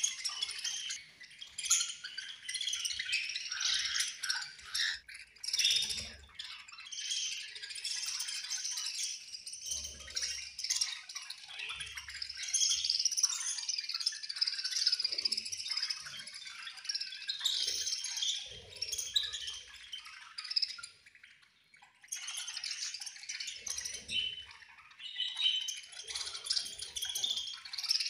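A flock of budgerigars chirping and chattering in high-pitched, overlapping calls, briefly dropping away about three-quarters of the way through.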